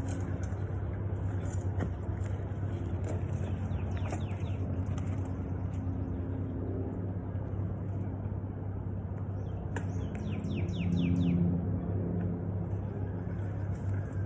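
Mini bike's small engine running steadily. A bird chirps in a quick series of falling notes about ten seconds in.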